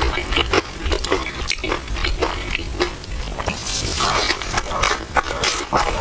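Close-miked eating sounds of chewy purple rice in milk tea: a quick, uneven run of small wet smacks and clicks, with a longer wet stretch about four to five seconds in.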